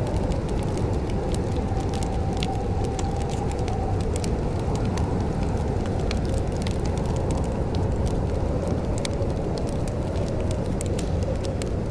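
Wood fire crackling in a fireplace: scattered sharp pops and snaps over a steady low rumble, with a faint whistling tone that fades out about four seconds in.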